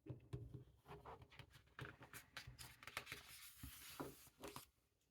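Faint rustling and small ticks of paper: a picture book's pages being handled and turned.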